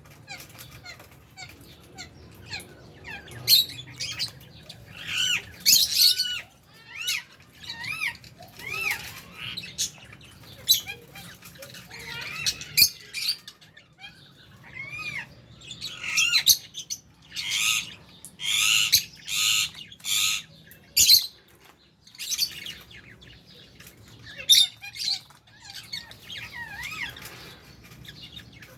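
A flock of lovebirds and budgerigars calling: harsh squawks mixed with short rising-and-falling chirps, coming in quick bursts. The loudest run of squawks comes a little past the middle.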